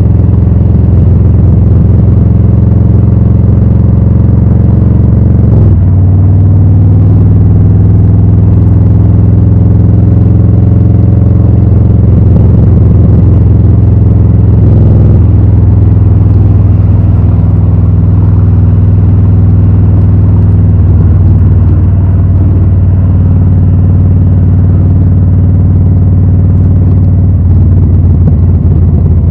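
Harley-Davidson Low Rider S Milwaukee-Eight 114 V-twin running through Rinehart slip-on exhausts at a steady, loud pace. Its pitch drops briefly about six seconds in and dips again around fifteen seconds.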